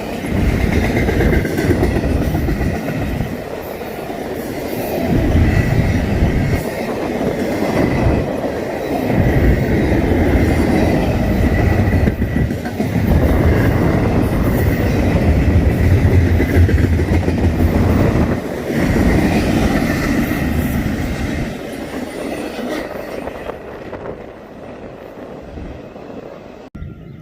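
BNSF double-stack container train rolling past, its wheels clacking over the rail joints with a faint wheel squeal over the rumble. The sound eases off over the last few seconds and then cuts off abruptly.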